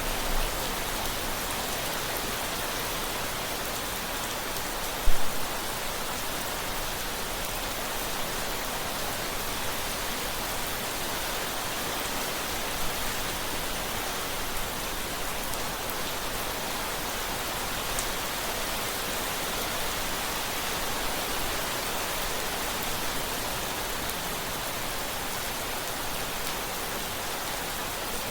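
Steady rain falling, an even hiss with scattered drop ticks. A single sharp, loud tap stands out about five seconds in.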